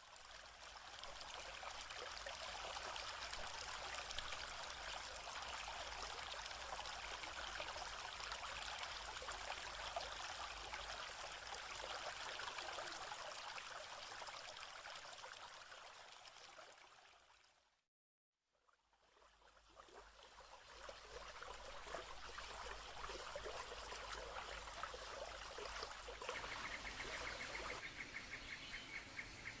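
Small stream of running water trickling steadily. It fades out about two-thirds of the way through, stops for a couple of seconds, then comes back.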